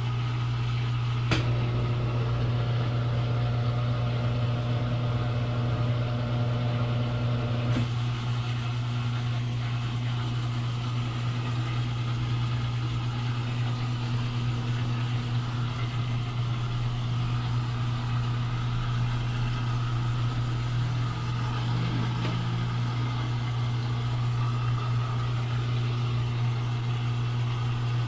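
Consul Super Maré 10 kg washing machine running with a steady low motor hum. A click about a second in brings an added whine, which stops about eight seconds in.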